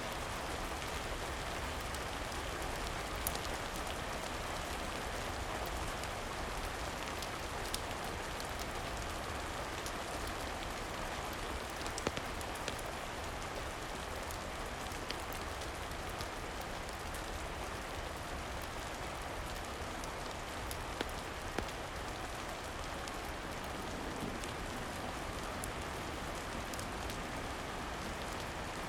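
Steady rain falling, a continuous even hiss, with a few sharp pops scattered through it.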